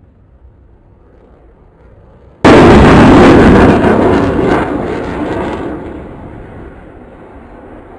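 Jet aircraft going past at an airshow: a faint rumble, then about two and a half seconds in a sudden, very loud roar that overloads the recording and fades away over the next few seconds.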